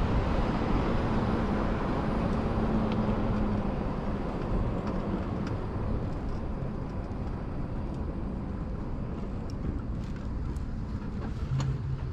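Wind and road rush from riding a 72-volt electric motorcycle, easing gradually as it slows, with a faint steady hum under it in the first half.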